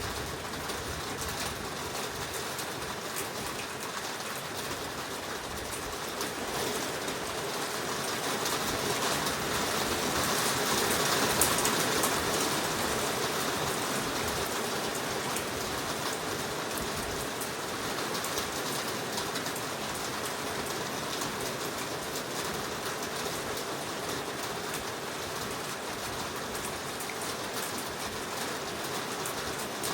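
Heavy rain falling steadily in a forest, an even dense hiss that grows louder for a few seconds around the middle.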